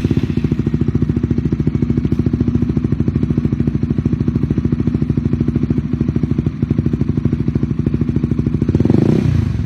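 Honda CBR150R single-cylinder engine running at idle through an aftermarket Akrapovic slip-on exhaust, with an even, rapid pulse. The engine revs up briefly near the end.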